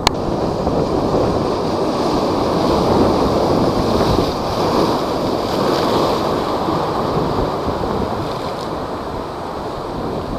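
Typhoon-driven high waves surging and breaking, with strong wind buffeting the microphone. The rush swells loudest in the first half, and a sharp knock sounds right at the start.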